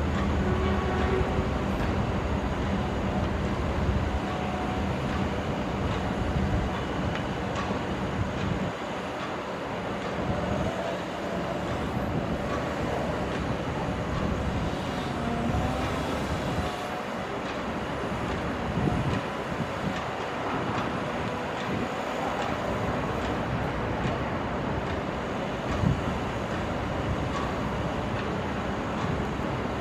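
Heavy diesel machinery at work: the engines of a crawler excavator and a farm tractor. A deep engine drone eases off about nine seconds in, then rougher running follows with scattered knocks and clanks, one sharp knock near the end.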